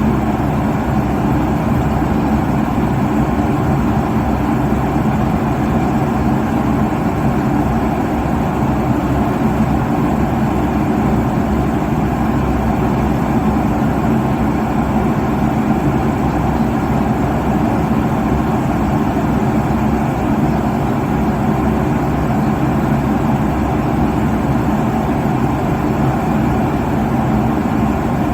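Steady airliner cabin noise at cruise: the low, even rush of air over the fuselage and jet engine hum, with faint steady tones underneath and no change throughout.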